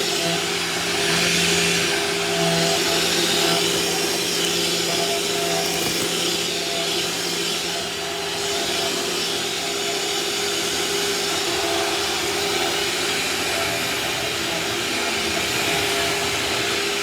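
Vacuum cleaner running steadily on the kitchen floor, a constant motor whine and rush of air, its loudness shifting slightly as it is pushed around.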